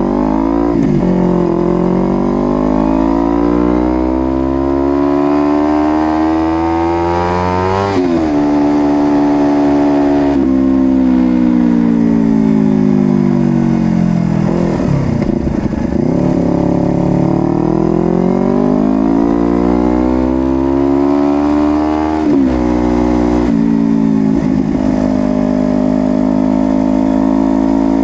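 Honda CBR250RR motorcycle engine accelerating through the gears, its pitch climbing and dropping sharply at each upshift. Midway it eases off and slows down, then pulls away again with more upshifts.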